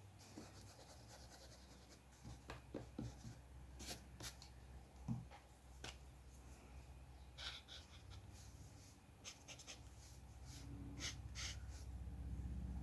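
Faint scratching strokes of a drawing tool on paper, in short irregular scrapes and light taps, over a steady low hum.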